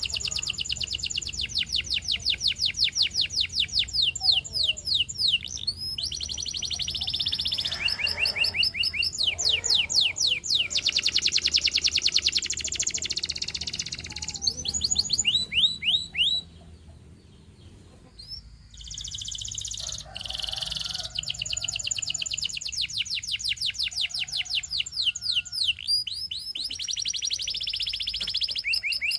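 Domestic canary singing: long, fast trills of rapidly repeated high notes, one tour after another, with a break of about two seconds past the middle.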